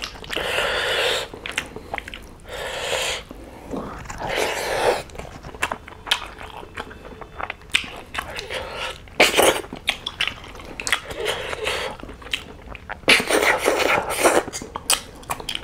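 Close-miked chewing and biting of cooked snails eaten by hand, in irregular bursts of wet mouth noise and clicks.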